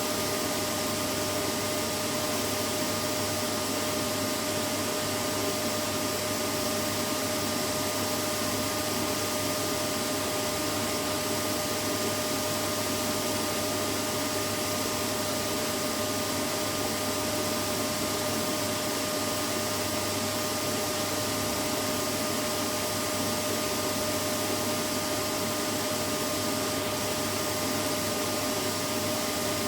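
Vacuum cleaner running steadily, a constant rushing noise with a steady motor hum, used as white noise to lull a baby to sleep.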